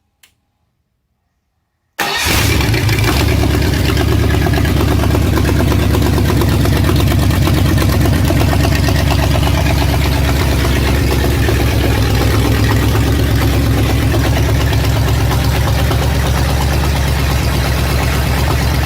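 Ford 8BA flathead V8 on open headers. After a faint click, the engine comes in abruptly about two seconds in, loud, and runs steadily.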